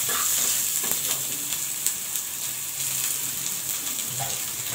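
Chopped onion and ground onion-masala paste sizzling steadily in hot oil in a steel kadai, stirred at first with a steel spatula.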